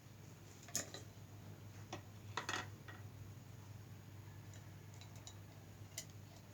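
A few short clicks and clinks of an eating utensil and a plastic noodle box being handled, with a cluster of them about two and a half seconds in, over a steady low hum.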